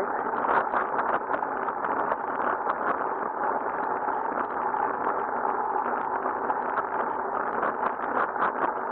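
Steady rushing wind and road noise on a riding cyclist's camera microphone, with a continual crackle of wind buffeting.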